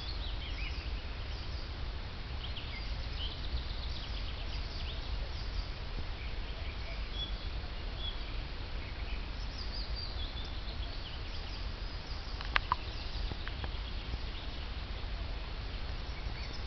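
Several songbirds singing and chirping, in short high trills and calls, over a steady low rumble. A single sharp click sounds about three-quarters of the way through.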